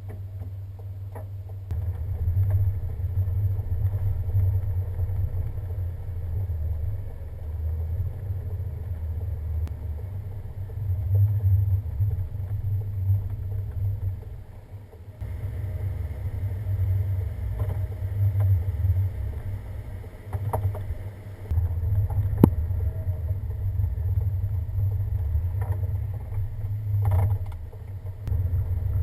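Steady low rumble of a vehicle driving on the snowy winter road, with a few sharp knocks; the sound changes abruptly a couple of times.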